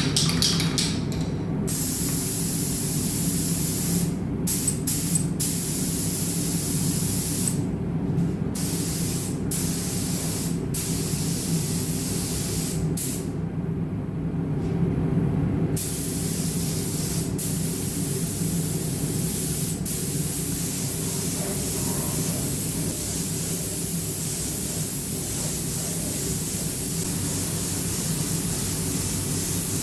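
Compressed-air paint spray gun (Iwata) hissing as it sprays the wheels, the trigger let off for short breaks many times, the longest about a second and a half midway. A steady low hum runs underneath.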